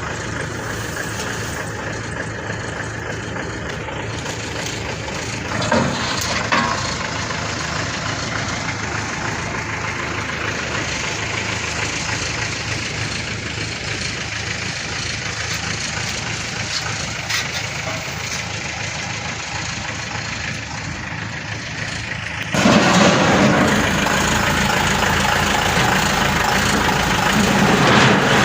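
Heavy diesel engine running steadily, then suddenly much louder about 23 seconds in, as if revved up or brought close.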